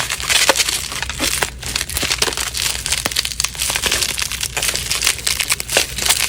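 A shipping package being opened by hand: a continuous dense crackling and crinkling of packing tape and wrapping being pulled and handled.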